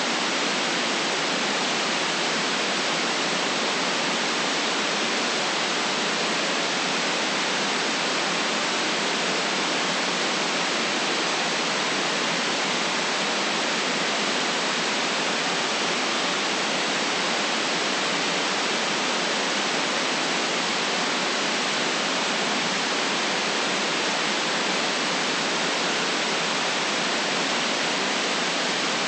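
Steady white noise: an even, unchanging hiss with the deep bass and the highest treble cut away, and no other sound in it.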